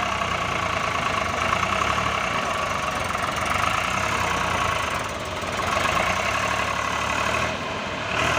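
Swaraj tractor's diesel engine running steadily, easing briefly about five seconds in.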